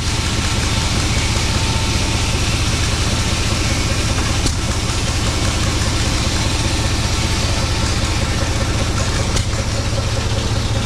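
An engine idling steadily, a low even running sound with fast regular pulses that neither rises nor falls.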